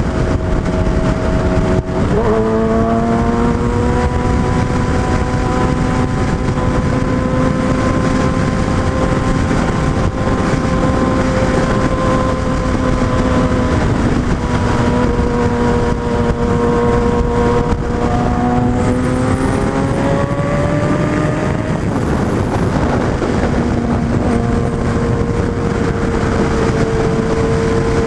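Suzuki Hayabusa motorcycle engine running at road speed over a steady rushing noise. Its pitch climbs as it speeds up about two seconds in, then holds steady, easing off and climbing again about two-thirds of the way through.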